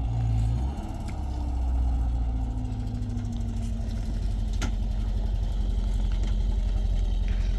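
An engine idling with a steady low drone, its pitch settling slightly lower over the first few seconds, then running on with an even pulsing beat.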